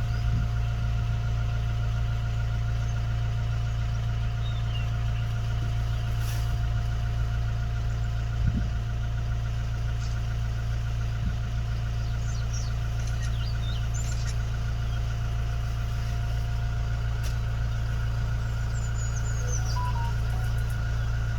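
Vehicle engine idling steadily: a constant low hum with a faint wavering whine above it, and a single knock about eight seconds in.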